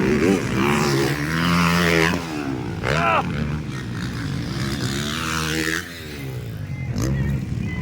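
Motocross dirt bike engines revving hard on the track, the pitch climbing and dropping several times as the riders open and close the throttle, with one sharp rev about three seconds in.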